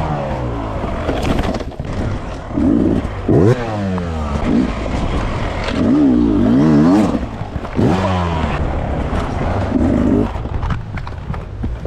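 Dirt bike engine revving up and down over and over, its pitch rising and falling with quick throttle blips, with a few sharp knocks mixed in.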